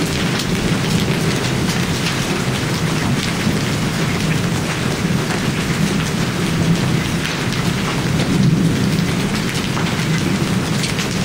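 Heavy hailstorm with large hailstones and rain pelting down: a loud, steady dense clatter of countless impacts over a low roar.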